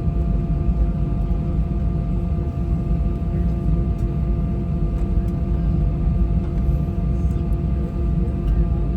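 Steady cabin noise inside an Airbus A320-232 on the ground before takeoff: the low rumble of its IAE V2500 engines running at low power together with the air-conditioning, with a few faint steady whines running through it.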